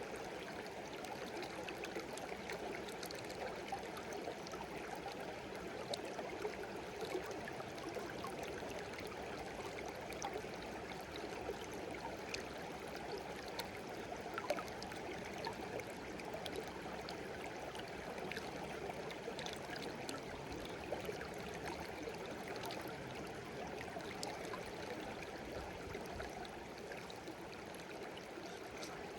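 Small stream babbling and trickling steadily, with little splashes and drips flicking through it.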